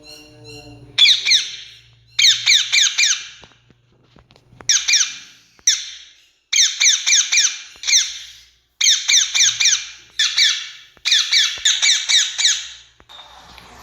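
Rose-ringed parakeet (Indian ringneck) calling: shrill, screeching notes given in quick bursts of several at a time, about nine bursts with short gaps between them.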